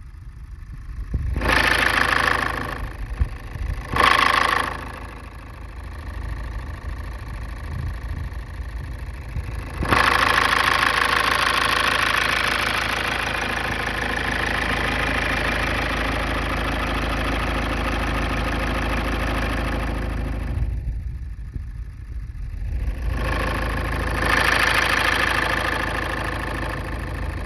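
Toyota Hilux engine with a big turbocharger and intercooler, revved in two short blips in the first few seconds, then held at raised revs for about ten seconds. It drops back briefly and rises again near the end.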